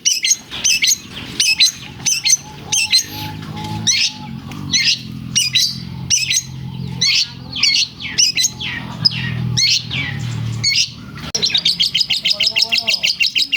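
Long-tailed shrike (cendet) singing hard, a fast string of sharp chips and whistled phrases mixed with mimicked lovebird calls. It ends in a rapid, even trill of about ten notes a second. A low steady hum runs underneath through the middle.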